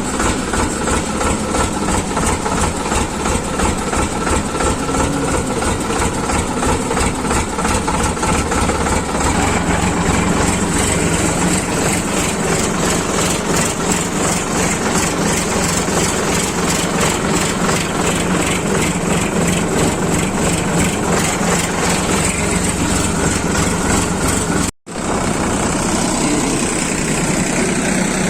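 Tractor engine running steadily with an even, rapid pulsing beat, cut off for an instant a few seconds before the end and then carrying on.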